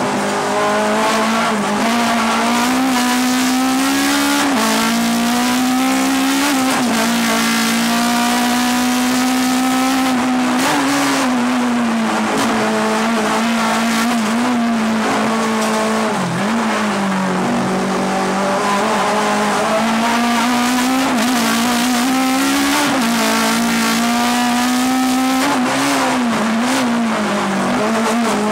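Fiat Ritmo 105's four-cylinder engine at high revs during a flat-out hillclimb run, heard from inside the cabin. The engine pitch stays high and wavers as the throttle is eased and reapplied through the bends, dipping sharply about sixteen seconds in before climbing back.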